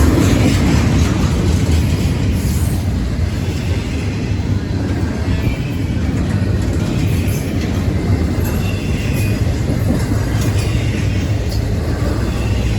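Train cars rolling steadily past on the rails, a continuous loud rumble with clickety-clack of the wheels over the rail joints.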